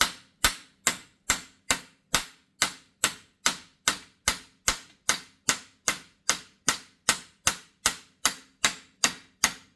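Hammer tapping a universal-joint bearing cap into the axle yoke to seat it: a steady, even run of sharp strikes, a little over two a second, each with a short ring.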